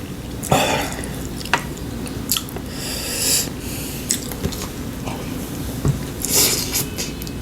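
Close-up eating sounds of a meal: chewing and slurping in a few short bursts, with a few sharp clicks.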